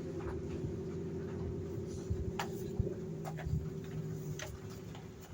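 Car engine idling steadily, with a few sharp light clicks and scrapes of handling over it; the engine sound eases off slightly near the end.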